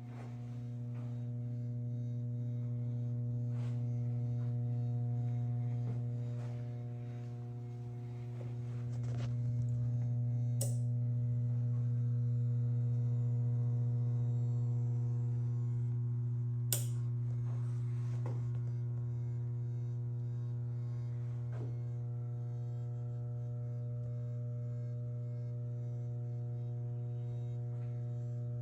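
Steady electrical mains hum, a strong low buzz with a stack of overtones, from the powered-up Williams Fire! pinball machine. Two sharp clicks about ten and seventeen seconds in, with a few fainter ticks.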